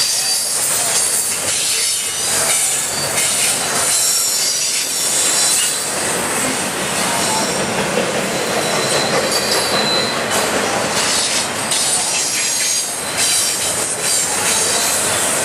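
Union Pacific double-stack intermodal train's container well cars rolling past at about 40–45 mph: a loud, steady rumble and clatter of steel wheels on rail, with thin high wheel squeals coming and going.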